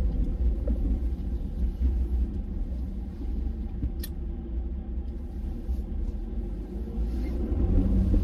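Plow truck running, a steady low rumble, with a single short click about four seconds in.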